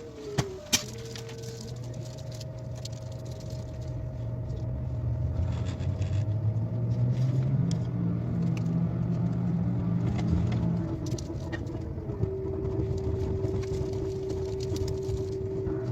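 KTX high-speed train pulling away from a station, heard from inside the car: the running noise and rumble build over the first several seconds, with steady whining tones over it. There are two sharp clicks about half a second in.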